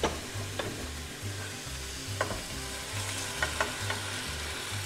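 Raw marinated chicken breast pieces sizzling steadily in a hot nonstick frying pan with onion, as they go into the oil. A plastic slotted spatula scrapes them out of a glass bowl and knocks against the bowl and pan, giving several sharp clicks, a few of them close together about three and a half seconds in.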